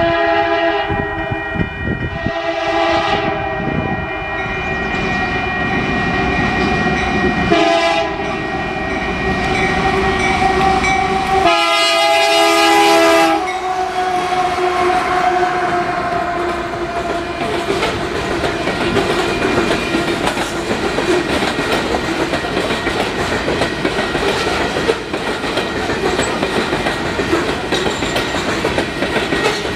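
Canadian Pacific freight locomotive sounding its multi-tone air horn in long blasts with a short one between, the chord dropping in pitch as the locomotive passes. The freight cars then roll by with a steady rumble and clacking wheels.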